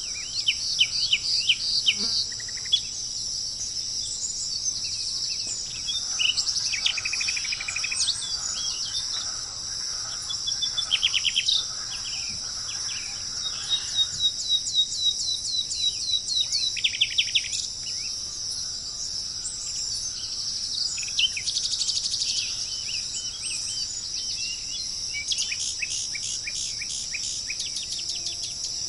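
Birds singing in repeated phrases of fast trills and short falling notes over a steady, high-pitched insect chorus.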